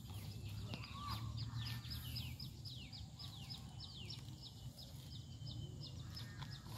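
A bird calling a rapid run of short, high, falling notes, about four a second, over a low steady hum.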